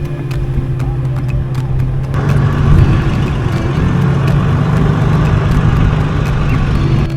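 Car driving: a steady engine hum with road noise, the noise rising about two seconds in and easing near the end.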